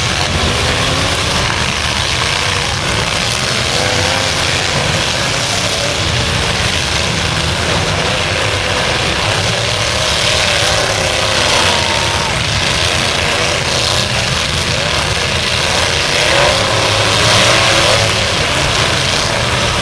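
Engines of several fullsize demolition derby trucks running together in a steady, loud din.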